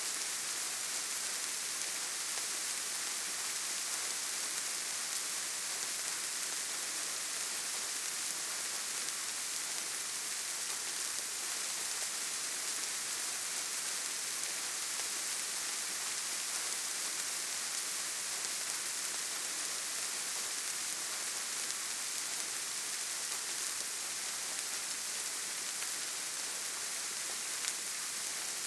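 Steady rain falling in a forest: an even, unbroken hiss, brightest in the high range.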